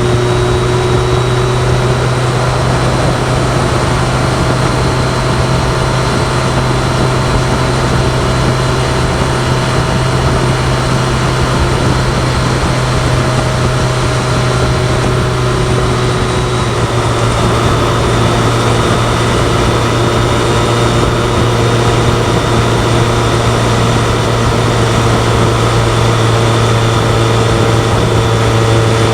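BMW K1100LT's inline four-cylinder engine running at a steady cruise. The engine note holds one even pitch and drops slightly about two-thirds of the way through.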